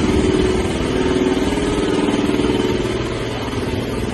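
An engine running steadily with an even, fast pulse, easing off a little near the end.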